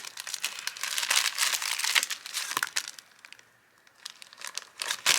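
Plastic packaging crinkling and rustling as a new transmission filter and gasket are handled, in irregular bursts. There is a short pause about three seconds in, then more crinkling near the end.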